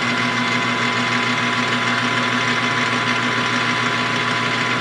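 Machine-tool spindle and motor running at a steady speed, a constant hum with a fixed whine, while a chamfer is cut on the edges of a small metal part.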